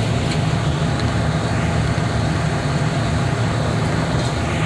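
Heavy equipment engine running steadily at a constant speed, a low drone that holds level throughout.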